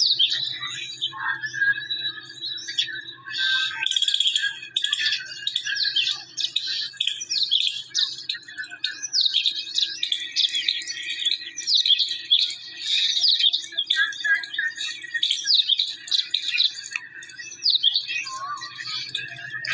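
Several birds chirping and calling busily, many short quick notes that sweep downward, overlapping one another without a break, over a faint steady low hum.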